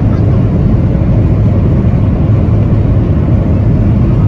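Steady, loud low rumble of a Boeing 737-800's CFM56-7B turbofan engines and rushing airflow, heard inside the passenger cabin under high thrust.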